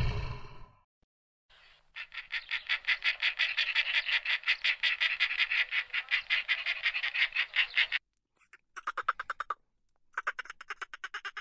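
A frog calling in a long, rapid pulsing trill lasting about six seconds. It ends abruptly and is followed by two shorter pulsed calls of lower pitch. A loud low call fades out in the first second.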